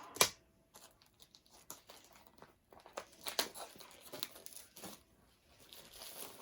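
Kit packaging being handled and opened: a sharp knock just after the start, then scattered crinkling and tearing.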